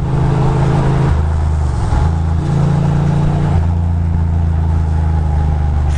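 Ducati Monster 620's air-cooled V-twin engine running under way, its note stepping up and down a few times with the throttle.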